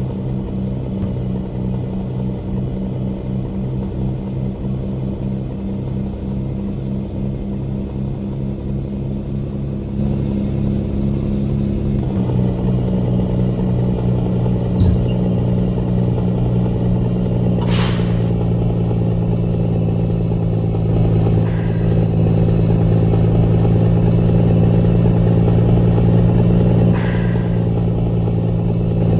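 Heavy truck engine running with a steady low drone. For the first twelve seconds it pulses rapidly, then it settles into a louder, even drone. A few short, sharp hissing noises come in the second half.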